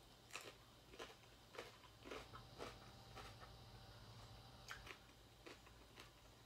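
Faint close-up chewing of a raw cucumber slice: soft crunching clicks about two a second, with a short pause midway.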